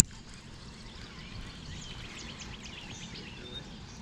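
Steady outdoor background noise with a small bird chirping in a quick run of short high notes about halfway through. A single sharp click comes right at the start.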